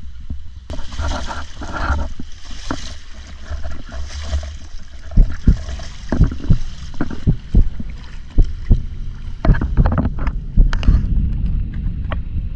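Water sloshing and wind buffeting the microphone, a heavy rumble with a hiss that swells about a second in and many irregular knocks and thumps.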